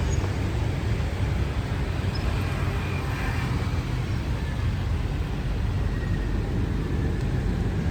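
2022 Toyota Land Cruiser VXR twin turbo running, a steady low rumble with no change in pitch or level.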